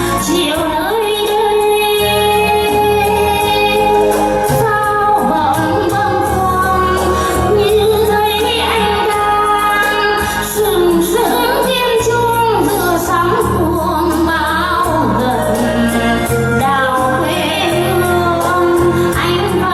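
A woman singing a Vietnamese song with instrumental backing and a bass line that changes every second or two.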